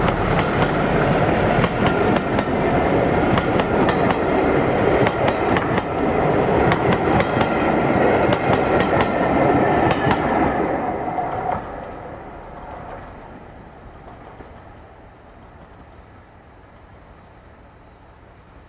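Diesel-hauled train passing close by, its wheels clicking over the rail joints, then receding and fading away from about twelve seconds in.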